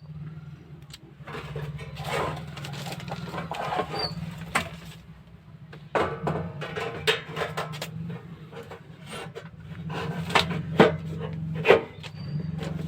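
Handling noises from a room heater's casing being fitted back together and its screws tightened: irregular clicks, knocks and scrapes over a steady low hum.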